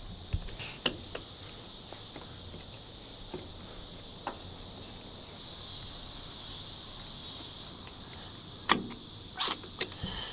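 Hand work on a truck door while fitting weatherstripping: a few sharp clicks and taps near the start and a quick cluster near the end. About five seconds in, a louder hiss starts and stops abruptly after about two seconds, over a steady high background hiss.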